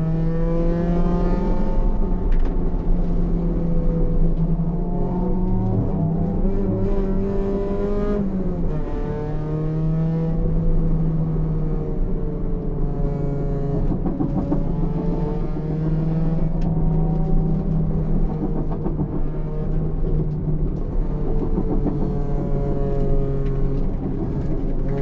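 Honda Civic's B18C four-cylinder engine running hard on track, heard from inside the car. Its pitch holds fairly steady, with a marked drop about eight and a half seconds in and smaller rises and falls later.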